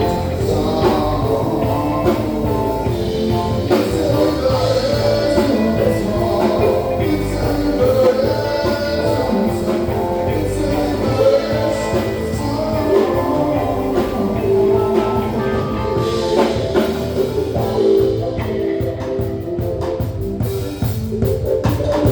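Live band playing a song, with a singer over the instruments.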